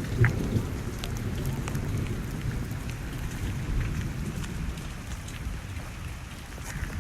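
Heavy rain and strong wind of a tornado-producing storm, with a continuous low rumble and scattered patter of raindrops. A brief, sharper knock stands out about a quarter of a second in.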